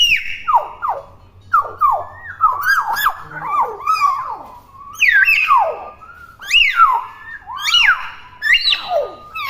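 Young common hill myna calling in a rapid string of loud whistles, mostly sharp downward-sliding notes one after another. These are its natural calls, not mimicked speech.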